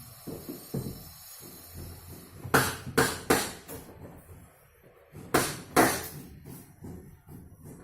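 Sharp knocks in two groups: three quick strikes, then two more about two seconds later, with fainter low clattering between them.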